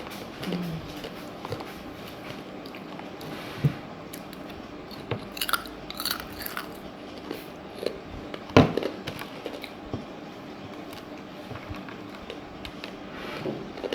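Edible candy glass being bitten and chewed, with scattered sharp crunches. The loudest crack comes about eight and a half seconds in.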